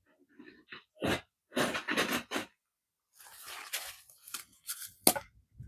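Irregular crunching and tearing noises close to the microphone, several short bursts in a row with a sharp, loud crunch near the end.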